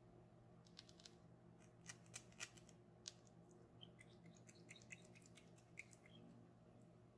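Faint, irregular small clicks and crackles from hands handling toy packaging and contents, scattered through most of the stretch over a low steady hum.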